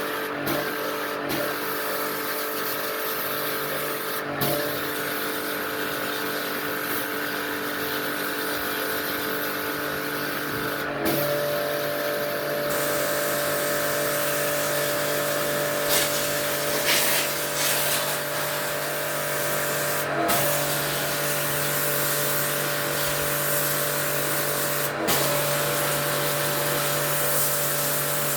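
An electric motor runs with a steady hum over a hiss. The hum shifts about eleven seconds in, and there are a few sharp clicks.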